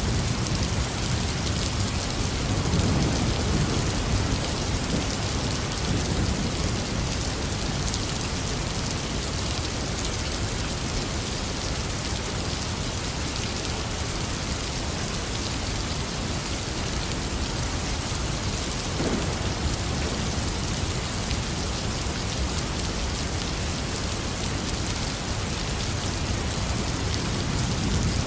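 Heavy rain falling steadily, with low rumbles of thunder swelling a few seconds in, briefly past the middle, and again near the end.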